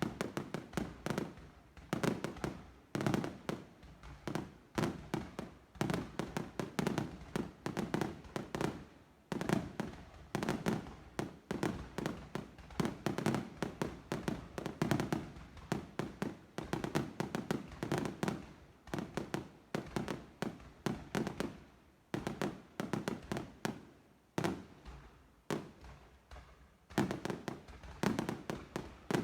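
A fireworks display going off in a continuous barrage: sharp bangs and cracks, several a second, with no pause.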